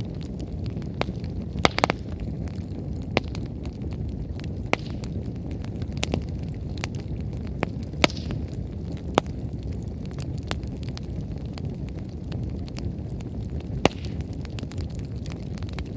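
Wood campfire burning over a steady low rush, with irregular sharp crackles and pops from the firewood. A few louder pops stand out, including a double pop about two seconds in and single ones around eight and fourteen seconds.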